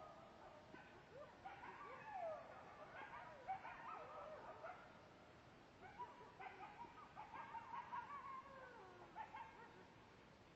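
A wolf pack chorus-howling: several faint, overlapping howls that slide up and down in pitch, mixed with short yips.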